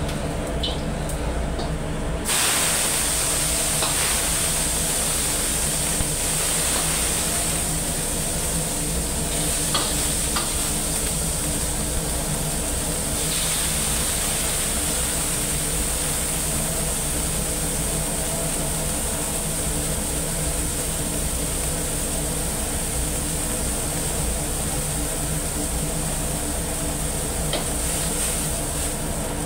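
Egg and tomato hitting a hot wok about two seconds in and then sizzling steadily as they are stir-fried, with a few knocks of the metal ladle against the wok. A steady low hum from the kitchen runs underneath.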